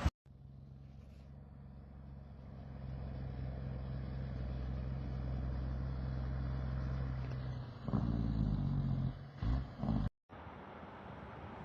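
Car engine and road noise, a low steady hum that swells over the first few seconds. Louder rough noises come about eight seconds in and again a second and a half later, then it cuts to a quieter, even rushing noise.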